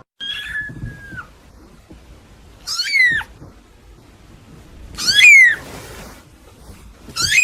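A cat meowing: a short, flatter meow at first, then three loud meows, each rising and falling in pitch, about two seconds apart.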